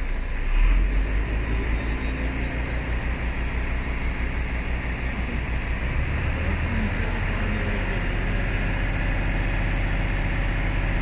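Heavy diesel vehicle engine running with a steady low rumble. There is a brief louder swell about half a second in, and the rumble evens out about six seconds in.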